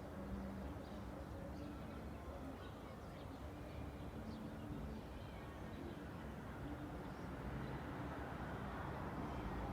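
Suburban outdoor ambience: scattered small bird chirps over a steady low hum of traffic, with a vehicle growing louder near the end.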